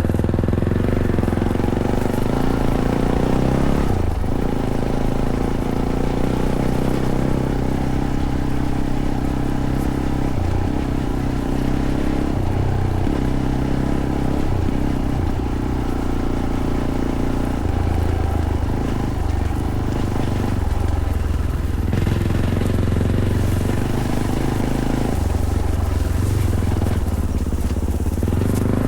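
Fantic Caballero 500's single-cylinder engine running through its stock Arrow exhaust while riding, its pitch stepping up and down with throttle and gear changes, with brief let-offs about four seconds in and again past the middle.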